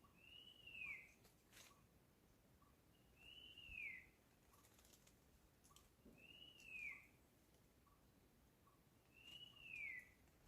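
A bird repeating a single faint, drawn-out whistle that rises slightly and then slides down, four times, about every three seconds.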